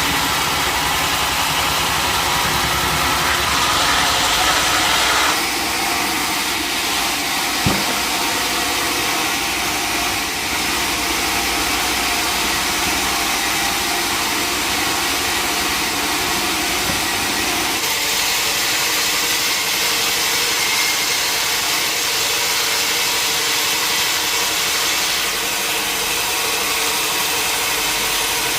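Sawmill machinery running steadily, its sound changing character a couple of times, with one sharp knock about eight seconds in.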